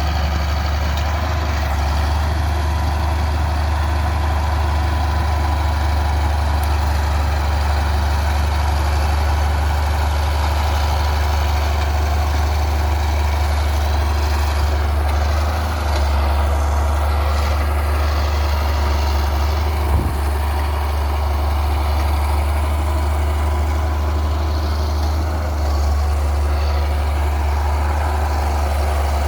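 Bulldozer's diesel engine running steadily, a constant deep drone with a faint steady whine above it.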